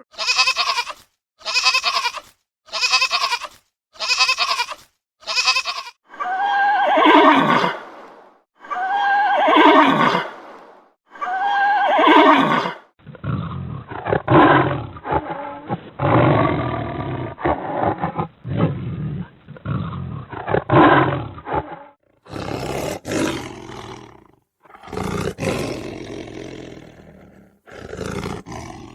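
A series of different animal calls, one clip after another: about six short pitched calls roughly a second apart, then three long calls that fall in pitch, then a longer run of calls in a duller-sounding recording, then a few more separate calls near the end.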